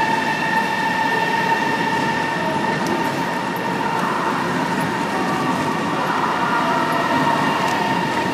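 CRH3 high-speed electric train moving past while pulling out of the station: a steady rolling rush with a steady high whine on top.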